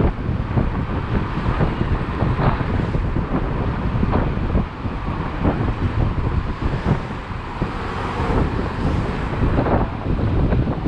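Wind buffeting the microphone while riding a motorcycle, over road and engine noise.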